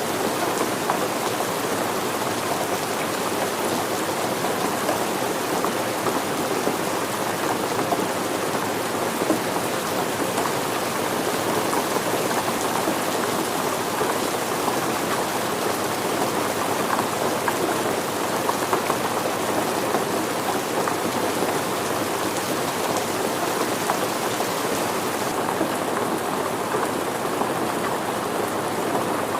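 Steady rain falling, a dense even hiss with fine scattered drop patter on surfaces.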